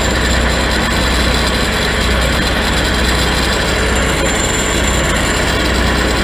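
Grob 6V-36 vertical band saw running steadily, its 15 hp motor and gearbox driving the blade with a constant low hum, a thin high whine and a dense mechanical rush.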